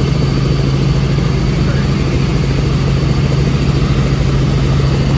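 Steady drone of a helicopter in flight, with a strong, unchanging low hum.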